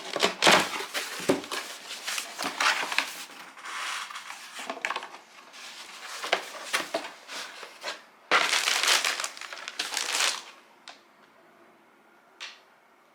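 Parcel packaging being handled and opened: irregular crinkling and rustling, loudest in a long burst about eight seconds in, then stopping, with a click and one short rustle near the end.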